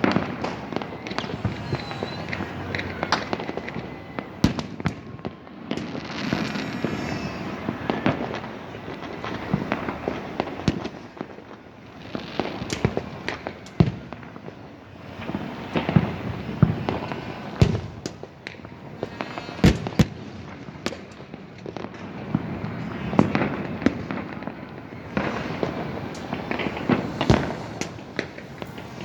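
Many fireworks going off at once: a dense, continuous run of bangs and crackles, with louder single reports standing out every few seconds.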